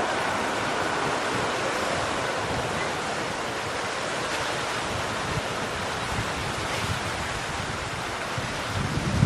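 Wind buffeting the microphone over the fading rush of a jet airliner that has just passed overhead on final approach. A stronger gust hits near the end.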